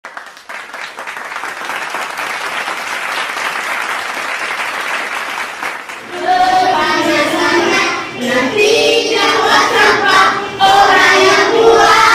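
Applause for about six seconds, then a group of young children singing together, louder than the clapping.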